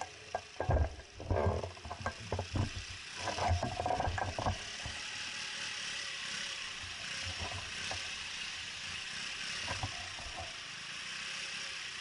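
Bicycle riding over an uneven surface: irregular knocks and rattles for the first four seconds or so, then a steady hiss of tyres and rushing air.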